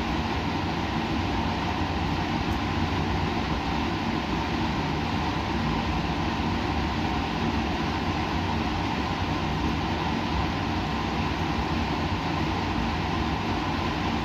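Continuous steady white-noise-style hiss and rumble with a faint low hum underneath, even and unchanging, with no separate events.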